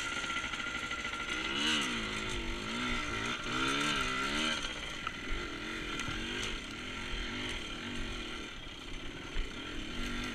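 Small off-road motorcycle engine running, its pitch swinging up and down in quick blips of the throttle for a few seconds, then settling to a steadier, lower run.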